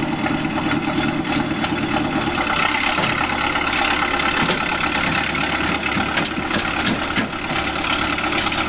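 Engine of the vehicle dragging the old truck out running steadily, its note changing about two and a half seconds in as the pull gets under way. A few sharp knocks come in the last few seconds.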